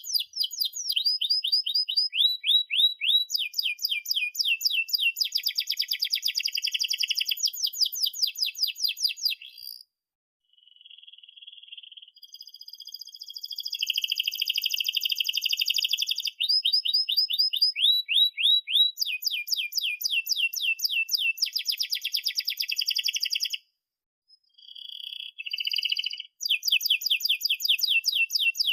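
Domestic canary singing a long song made of fast repeated trills (rolls) and rapid chirps, with short breaks about ten seconds in and again about twenty-four seconds in.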